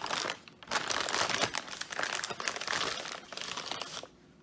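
Takeout food packaging crinkling and rustling as it is handled and opened, a dense run of crackles with a short lull under a second in, dying away near the end.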